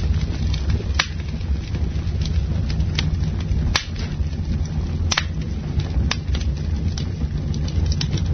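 Campfire burning: irregular sharp crackles and pops of burning wood over a steady low rumble, with the loudest pops about a second in, at around three to four seconds, and near five and six seconds.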